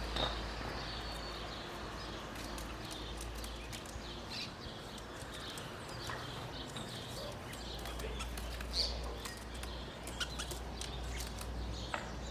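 Small songbirds giving short, high chirps at irregular intervals, over a low steady rumble.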